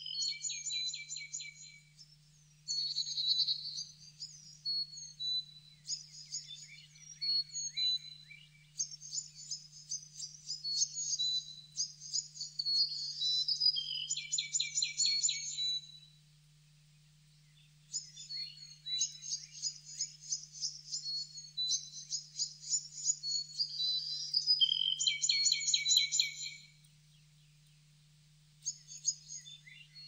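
Songbird song: rapid high-pitched chirps and trills in phrases several seconds long, broken twice by pauses of about two seconds, over a faint steady low hum.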